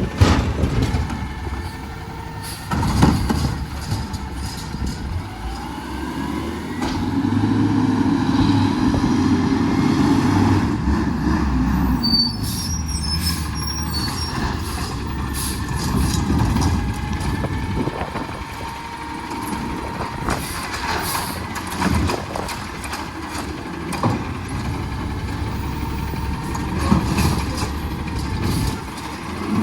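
Garbage truck's diesel engine running and rising and falling in pitch, with repeated clanks and knocks.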